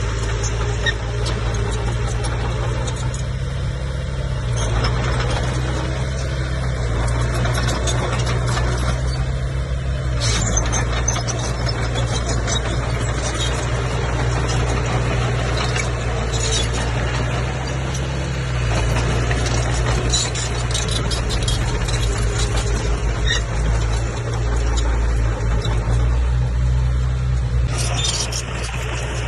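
Komatsu bulldozer's diesel engine running steadily under load, its low drone shifting in strength a couple of times, with scattered clanks over it.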